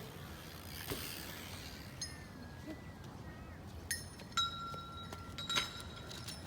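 A few light clinks, mostly about four and five and a half seconds in, each leaving a short ringing tone: toy monster trucks knocking against a hard surface or each other.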